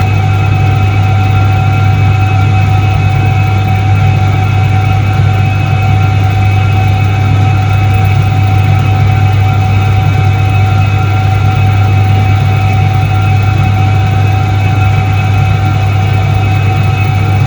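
Iset-3 washing machine from 1978 running with a steady, loud electric-motor hum, a deep drone with a fainter whine over it and no change.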